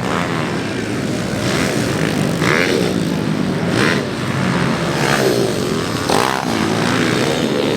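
Motocross dirt bike engines running hard, revving up and down again and again as the riders work the throttle.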